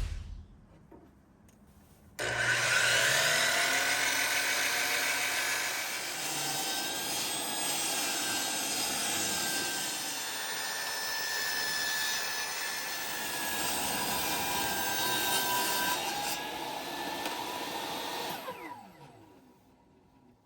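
A knock at the very start, then about two seconds in a power saw starts up and cuts through wood steadily for about sixteen seconds, winding down near the end as the motor coasts to a stop.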